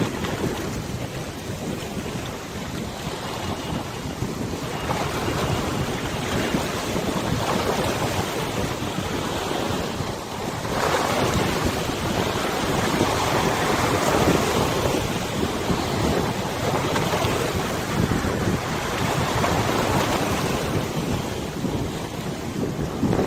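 Water of a wide river washing and lapping, with wind buffeting the microphone; it grows louder about ten seconds in.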